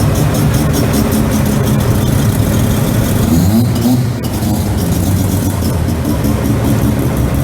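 Car engine running at idle, with a short rising rev a little past three seconds in.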